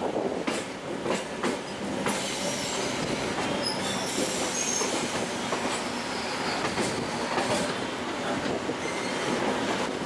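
Train running on rails: a steady rumbling hiss with irregular clacks from the wheels over rail joints, and a thin high wheel squeal partway through.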